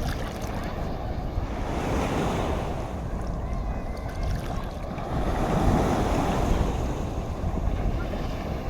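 Black Sea waves washing in, with wind buffeting the phone's microphone. The surf swells twice, about two seconds in and again around five to six seconds.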